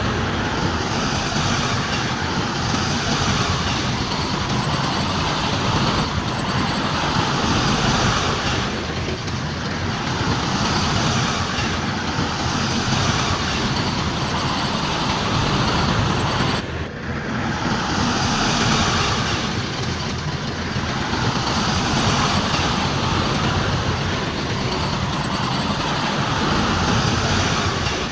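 Heavy earthmoving machinery with a diesel engine working steadily, its sound swelling and easing every few seconds, with a brief dip about two thirds of the way through.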